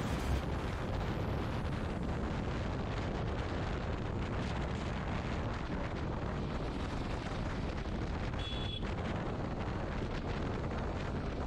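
Wind buffeting the microphone of a motorcycle riding at speed, a steady heavy rumble with the bike's running underneath. A short high beep sounds about three quarters of the way through.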